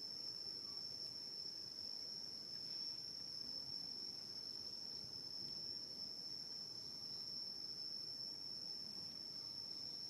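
Insects chirring in a steady, unbroken high-pitched drone, with faint low rustling beneath.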